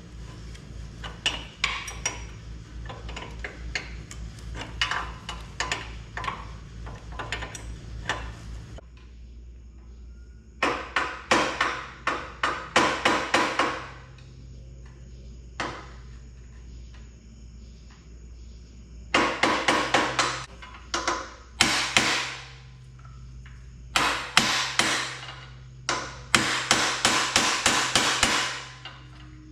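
Hammer blows in short bursts of rapid strikes, driving out the swing arm pivot bolt on a Harley Softail. A steady low hum with clicking runs under the first part and stops about a third of the way in.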